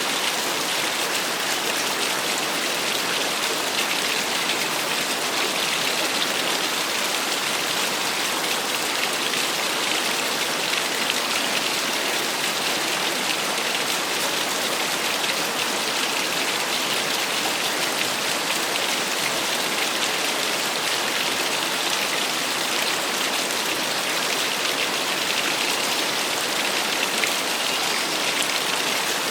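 Small waterfall splashing steadily: an even, unbroken rush of falling water with a hissing, spattering edge.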